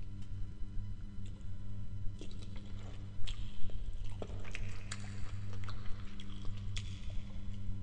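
Close-miked wet mouth sounds of biting and chewing a prawn and tomato-sauced spaghetti: scattered crisp clicks and squishes that start about two seconds in, over a steady low hum.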